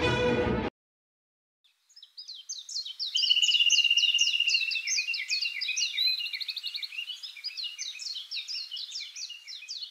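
Music cuts off abruptly just after the start. After a second or so of silence, birds chirp busily: a dense run of quick, high, falling notes with a brief held whistled note in among them.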